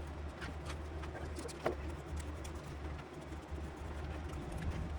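Hand shovels digging soil: scattered scrapes and knocks of the blades, the loudest about a second and a half in, over a steady low hum.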